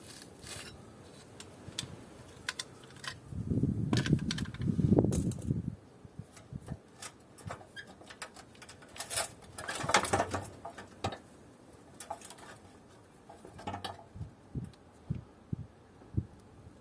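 Scattered clicks and clunks from parts of an air conditioner being handled during disassembly for scrap. There is a longer low rumble about four to six seconds in, and a cluster of louder knocks around ten seconds.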